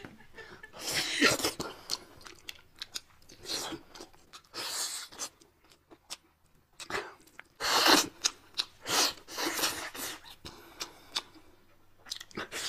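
Close-miked chewing and crunching of crispy fried food, in irregular bursts with short pauses between bites.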